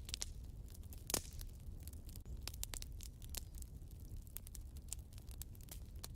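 Wood fire in a fireplace crackling: irregular sharp pops and snaps over a low steady rumble, with one louder pop about a second in.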